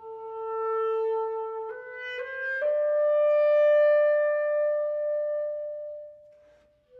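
Clarinet playing a slow, sustained melody: a held note, then a few quick steps upward about two seconds in, settling on a long high note that swells and then fades away near the end. A lower cello note dies away just at the start.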